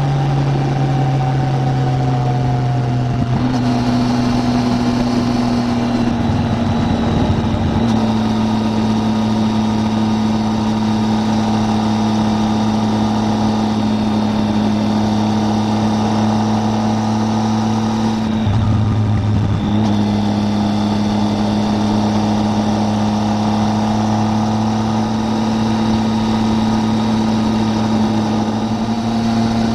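Triumph Tiger 800's three-cylinder engine running steadily on the road, with wind rush on the microphone. The steady engine note shifts about three seconds in and breaks briefly near seven and nineteen seconds in.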